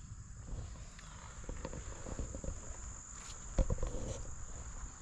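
Crickets trilling in a steady high drone, with scattered footsteps and one louder thump about three and a half seconds in.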